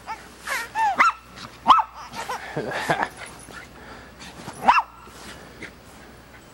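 A dog barking in short, high yips: a quick run of them in the first three seconds and one more about five seconds in.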